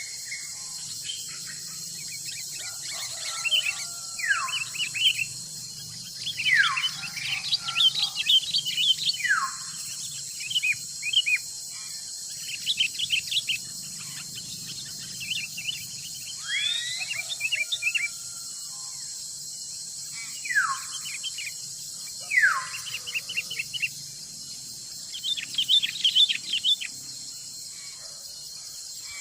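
Forest birdsong: repeated falling whistles, about six of them, among bursts of quick chirps, over a steady high-pitched insect drone.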